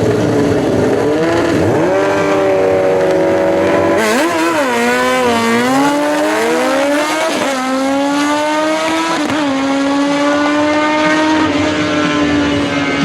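Drag-racing motorcycle engines revving hard, the pitch swinging up and down, then holding a high, steady note for the last several seconds.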